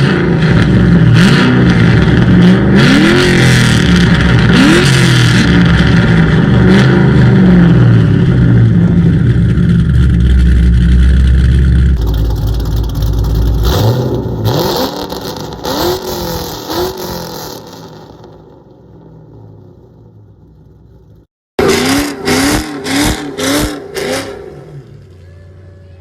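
Straight-piped, catless, cammed Ford Mustang GT 4.6 L three-valve V8 accelerating hard: loud for about twelve seconds with repeated rising pitch sweeps, then dying away over several seconds. After a brief break, five quick rev blips near the end.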